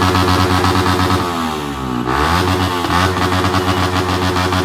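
Yamaha R15M's single-cylinder engine being revved through its exhaust. The revs rise sharply right at the start and again about two seconds in, each time falling away slowly.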